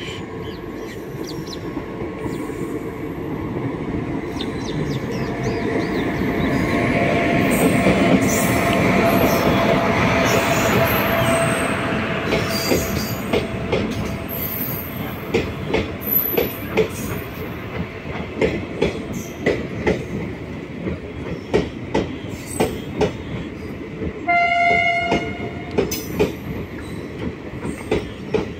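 Passenger express hauled by an electric locomotive pulling into the station. A rumble builds as the locomotive approaches and passes, then the coaches roll by with a clacking of wheels over the rail joints. A train horn sounds for about two seconds near the end.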